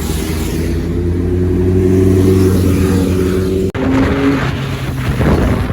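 Motorcycle engine accelerating, its note rising steadily for about three and a half seconds, then a sudden break followed by another engine note under gusting wind noise on the microphone.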